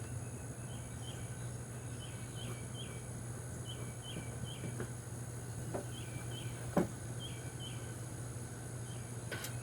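Outdoor insect chorus: a steady high drone with short chirps repeating in pairs over a low steady hum, broken by a few light clicks, the loudest about seven seconds in.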